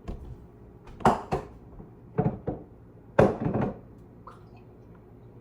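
Dishes and pans clattering: a run of sharp knocks and clanks, the loudest cluster about three seconds in, then it settles.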